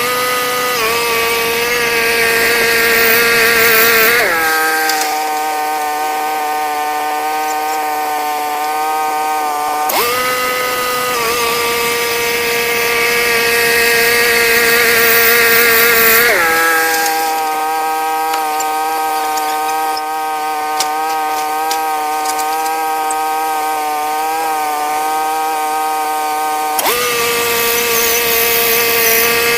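Portable band sawmill running, its pitch dropping as it comes under load in the cut and rising again when the load comes off, twice.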